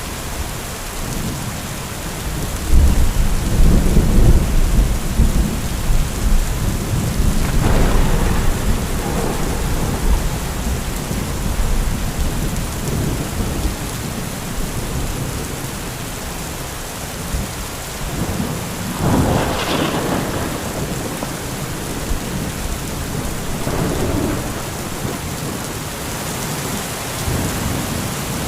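Heavy steady rain with rolling thunder: a long deep rumble a few seconds in, then shorter claps about a third and two-thirds of the way through, the later one sharper.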